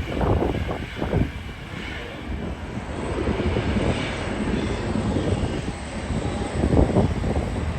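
Jet airliner engine noise, a steady rushing sound with some swells in loudness.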